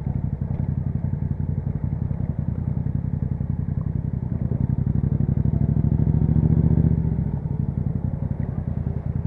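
2021 Yamaha MT-07's 689 cc parallel-twin engine running through an Akrapovic exhaust in a steady, even pulse. It swells louder briefly about two-thirds of the way through, then settles back.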